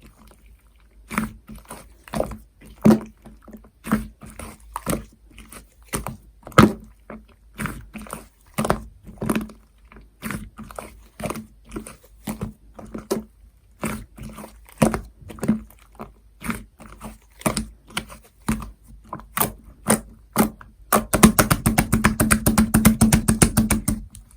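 Cream slime being squeezed and pressed by hand, making irregular sticky clicks and pops a few times a second. Near the end the clicks come in a fast, dense run.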